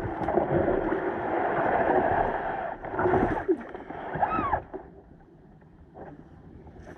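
Kayak paddling on a river: paddle strokes and water splashing against a steady wash of noise. A short, arching pitched squeak or call sounds just after four seconds in, and after that it goes much quieter.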